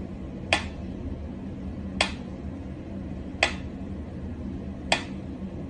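Mechanical pyramid metronome ticking at a slow tempo: four sharp clicks, about a second and a half apart.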